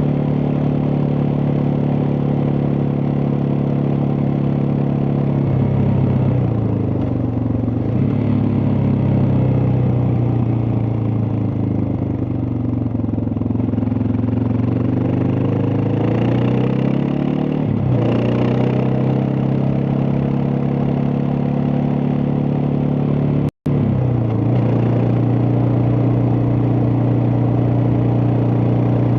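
Suzuki DR650's single-cylinder four-stroke engine running on the move. The engine note eases off about six seconds in, sags and climbs again, and makes a sudden step in pitch after about eighteen seconds before settling to a steady note. A brief dropout cuts the sound for an instant a bit past two thirds of the way through.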